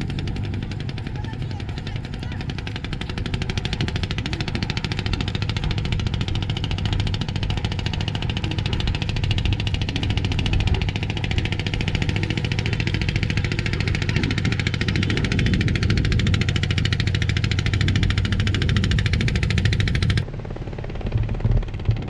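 A small engine running steadily with a rapid, even pulsing beat. About 20 seconds in it cuts to a quieter, duller engine sound.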